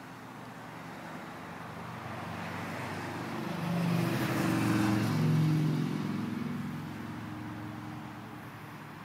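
Caterpillar 140H motor grader's diesel engine running, growing louder to a peak about four to five seconds in and then fading, its pitch dropping near the loudest point.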